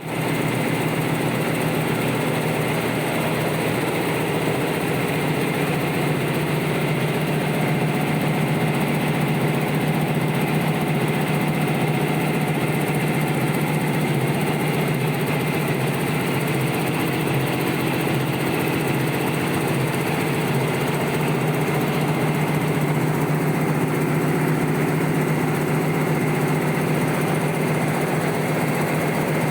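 High-speed warp knitting machine for net fabric running at steady speed, a constant mechanical hum and dense machine noise with no change in pace.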